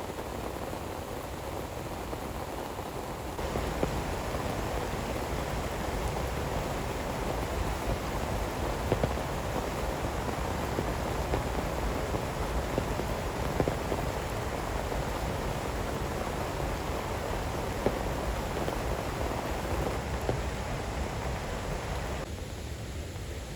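Heavy rain falling steadily, with scattered sharper drop hits. It gets louder a few seconds in and turns duller near the end.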